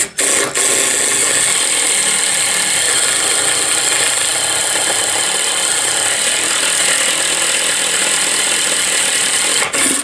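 Impact driver spinning a worn hole saw as it cuts, a steady loud grinding rattle that starts about half a second in and stops just before the end.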